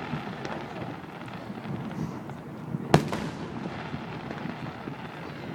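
Aerial fireworks display: one loud shell burst about three seconds in, with a trailing echo, among fainter pops and a steady crackling background.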